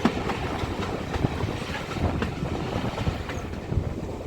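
Railway carriage running along the line: a steady rumble with a few sharp clicks of the wheels over rail joints.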